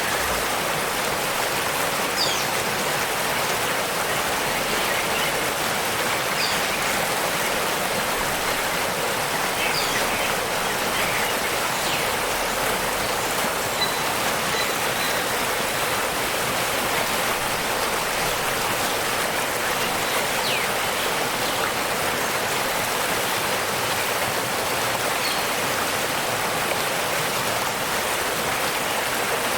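Waterfall rushing in a steady, even wash of water noise. A few faint, brief high bird chirps come through it now and then.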